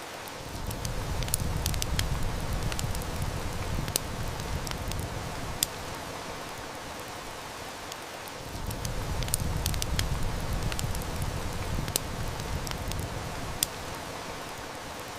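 Steady heavy rain with the sharp snaps and crackles of a wood fire, a few of them standing out. A low rumble swells and fades twice underneath.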